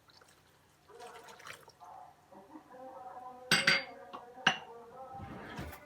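Kitchen work: liquid being poured, with sharp clinks of kitchenware about three and a half seconds in and again a second later.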